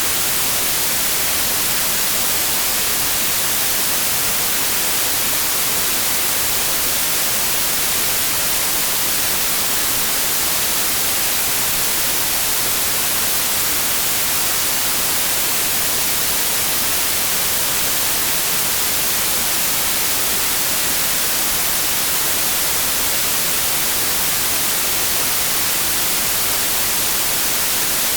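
Steady white noise: an even, unbroken hiss, strongest in the treble, with no change in level.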